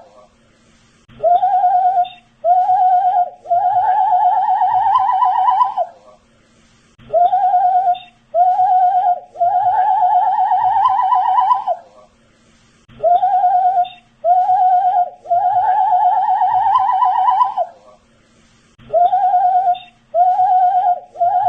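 A man whistling a short looped phrase: two short notes, then a long, wavering held note. The phrase repeats about every six seconds, with brief pauses between repeats.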